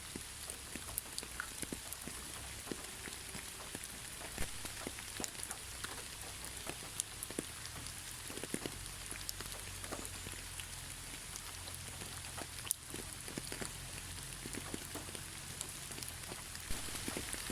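Gentle steady rain without thunder: an even hiss with many individual drops pattering and ticking on a surface.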